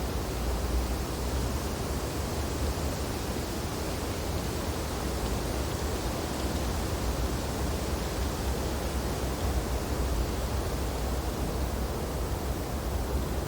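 Wind blowing steadily through snowy tree branches: an even rushing hiss that neither builds nor drops.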